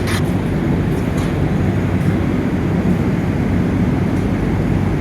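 A steady low mechanical rumble with an even hum, and faint clicks at the start and about a second in.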